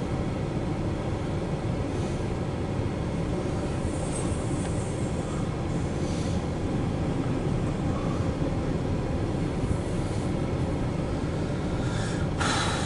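CSX intermodal freight train rolling past, its cars carrying truck trailers and containers, making a steady rumble of wheels on rail. A short, sharper burst of noise comes near the end.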